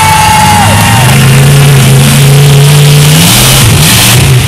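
Monster truck's large engine revving, its low note holding steady and then rising about three seconds in as the throttle opens, getting louder and harsher. A loud held note, a shout or horn, sounds at the very start.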